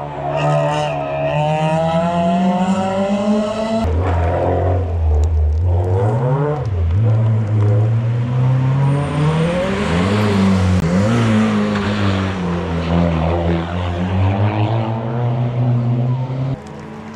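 Hill-climb race cars accelerating up the course, their engines revving and dropping with each gear change. An abrupt cut about four seconds in moves to another car. Around the middle, the car passes close with a hiss from the wet road.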